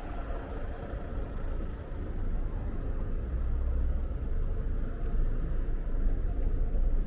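Low, steady rumble of street traffic, with a motor vehicle's engine running close by and swelling slightly about halfway through.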